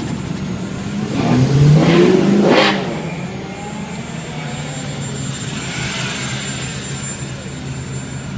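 Car engine revving, a single rise and fall of about two seconds starting about a second in, over a steady low engine hum.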